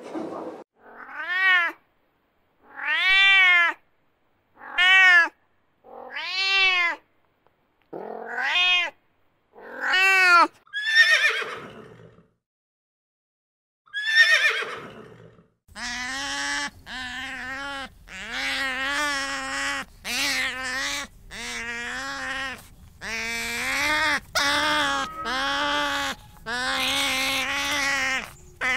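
A series of animal calls. Over the first twelve seconds come about eight separate cries, each rising then falling in pitch. After a short pause and a single falling call, a long run of quicker, steadier calls follows, one after another, over a steady background noise.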